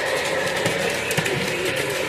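Menard's Milwaukee Road model locomotive running on its track: a steady running noise with a rapid patter of small clicks from the wheels on the rails.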